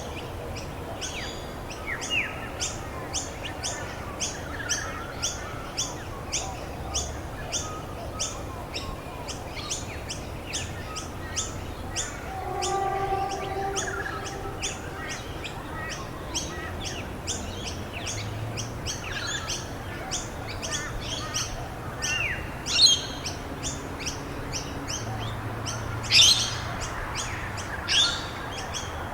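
Songbirds chirping: a long, even run of short high chirps several times a second, with a few louder downward-sweeping calls near the end, over a steady background hiss.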